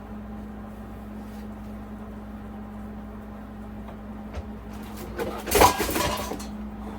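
A GE alarm clock being knocked over and clattering down onto a hard surface: a burst of knocks and rattling lasting about a second near the end, over a steady low hum.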